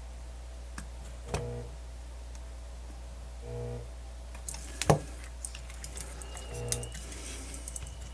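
Scattered small clicks and taps of handling, the loudest about five seconds in, over a steady low hum, with a short low buzz that comes back three times at roughly three-second intervals.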